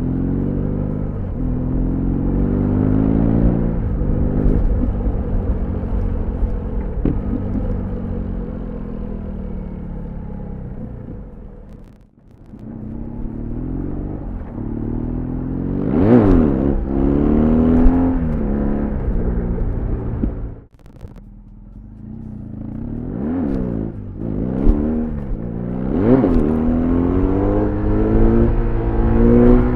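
BMW R1200GS boxer-twin engine and exhaust under way, pulling up through the revs again and again with the pitch falling back between pulls as it shifts gears. The throttle is shut off briefly twice, about twelve seconds in and again just after twenty seconds, before the engine pulls hard once more.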